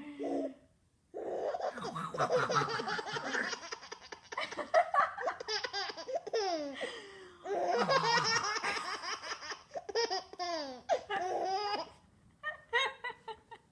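Six-month-old baby laughing hysterically in long runs of rapid, pulsing belly laughs, with a short pause about a second in and another near the end.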